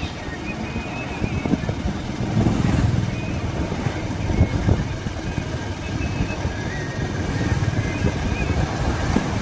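Motorcycle running on the move, a steady low rumble of engine and road noise that swells and eases a little.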